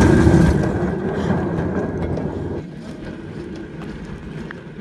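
Steel wheels of a railway handcar rolling along old rail: a loud low rumble and clatter that drops down about halfway through, leaving lighter rattles and ticks.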